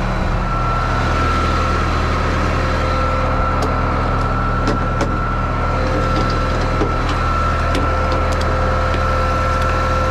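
Tow truck's engine running steadily, a low hum with a thin steady whine over it and a few light clicks.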